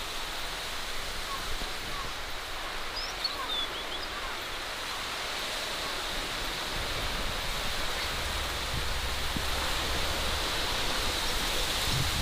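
Forest ambience: a steady rushing noise with a thin high steady tone, and a few faint bird chirps a few seconds in. From about halfway a low rumble joins, like wind on the microphone.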